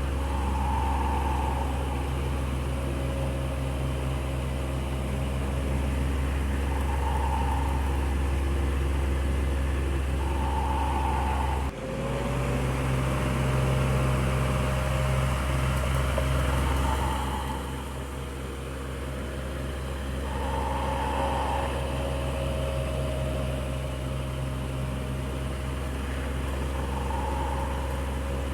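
Electric fan running steadily: motor hum with a few steady tones under the rush of air, and a soft swell every few seconds. There is a brief break about twelve seconds in, after which it carries on much the same.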